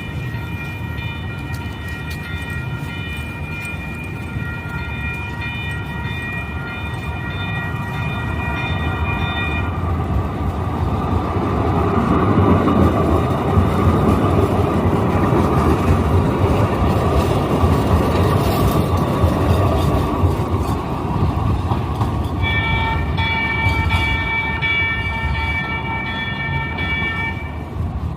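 Sacramento light rail train sounding a long steady horn blast as it approaches, then passing with a rising rush of wheel and rail noise, loudest about halfway through. Near the end it sounds a second long horn blast.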